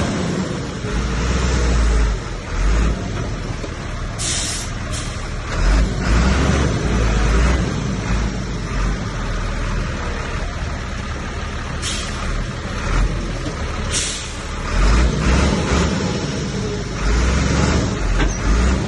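Heavy diesel earthmoving machinery working: a deep engine rumble that swells and eases every few seconds under load, with three short sharp hisses about four, twelve and fourteen seconds in.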